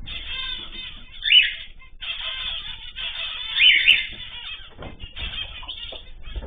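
Many small cage birds chirping and chattering together, with two louder calls, about a second and a half in and just before the four-second mark, and a couple of dull thumps near the end.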